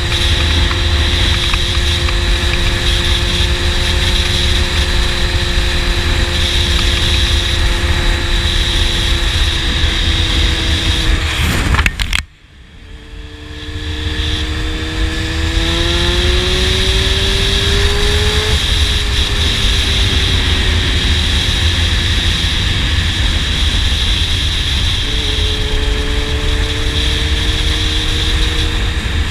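Honda CBR600 sport bike's inline-four engine running at a steady speed over heavy wind rush. About twelve seconds in the sound cuts out suddenly, then the engine note climbs steadily as the bike accelerates, eases off, and settles into steady cruising again.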